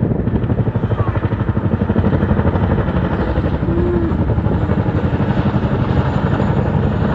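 Large firefighting helicopter with a water bucket passing overhead, its rotor beating loudly in a fast, steady chop.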